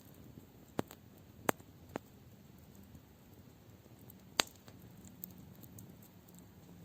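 Campfire wood crackling: a few sharp pops, the loudest about a second and a half in and again past four seconds, over a low steady background with fainter ticks.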